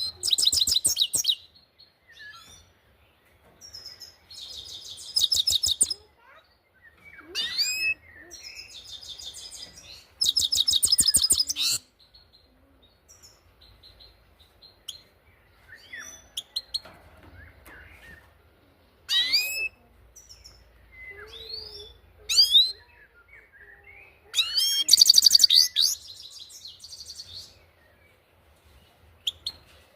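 Grey-crowned goldfinch singing: loud phrases of very rapid, buzzy trilled notes, each one to three seconds long, with short, sharply rising 'pit' calls between them.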